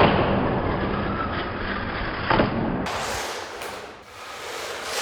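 WLToys 144002 RC monster truck's brushed electric motor running as it drives over rough ground, with tyre and chassis rattle and a sharp knock about two seconds in.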